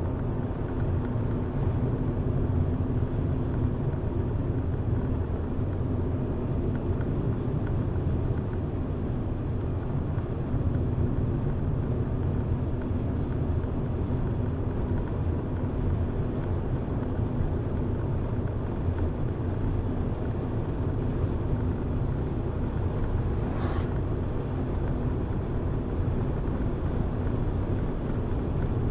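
A car driving at a steady pace, with a continuous low engine and road rumble that does not change.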